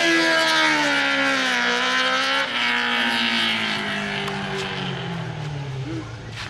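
Suzuki GSX-R600 inline-four engine in a modified ATV, running high with its pitch falling. About two and a half seconds in there is a short step, then the pitch falls again and the engine fades away as it runs on.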